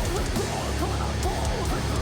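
Metal band playing live: heavy distorted electric guitars, bass and drums, with short sliding pitched notes over the top.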